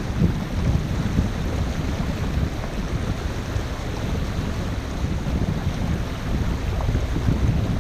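Wind buffeting a GoPro's microphone aboard a moving motor-sailer: a steady, gusty low rumble.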